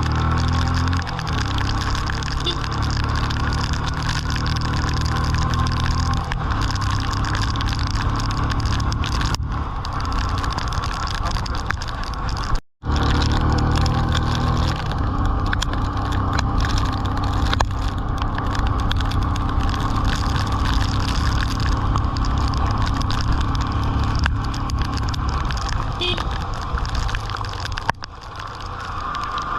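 Motorcycle engine running under way, its low note shifting a few times, over a steady rushing hiss of wind and rain.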